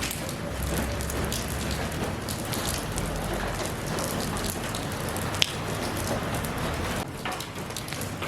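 Steady rain falling, with individual drops pattering on a surface and one sharp drip about five and a half seconds in.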